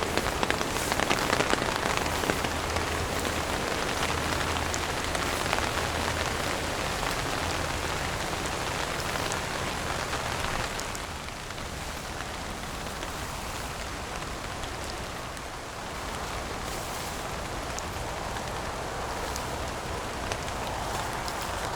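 Heavy rain falling steadily, thick with the patter of individual drops. It becomes a little quieter about halfway through.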